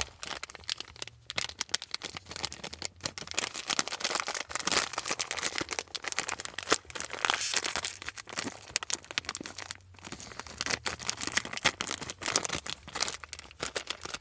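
A small plastic snack bag of pretzel pieces being handled and torn open, crinkling and crackling throughout.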